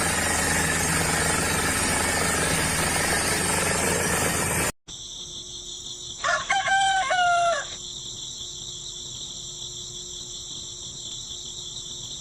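A loud, steady rushing noise that cuts off abruptly a little before halfway. After it, insects chirp steadily and a rooster crows once, for about a second and a half.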